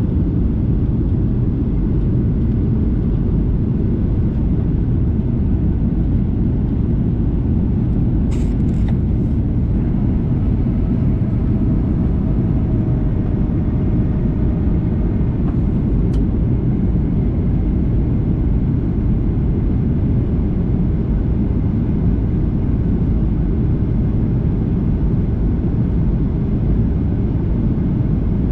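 Steady cabin noise inside a Boeing 737-800 in flight: a loud, even rumble from its engines and the airflow. A couple of faint clicks come through partway.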